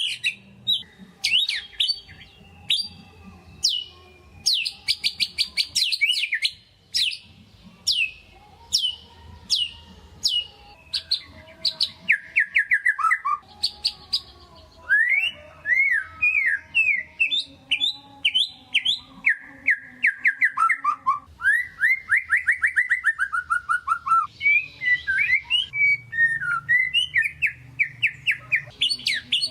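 White-rumped shama (murai batu) singing without pause: long runs of sharp, quickly repeated down-sweeping notes, fast trills and whistled phrases that rise and fall in pitch.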